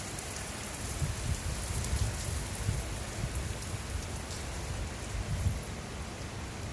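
Rainstorm: steady rain falling, with irregular low rumbles underneath.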